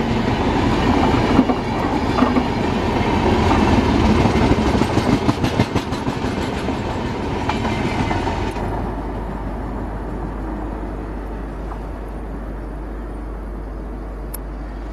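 Express train's passenger coaches passing at speed close by: a loud rushing rumble with rapid clickety-clack of the wheels over rail joints. About eight and a half seconds in it cuts abruptly to a softer, duller rumble with a low hum as a train runs away from the listener.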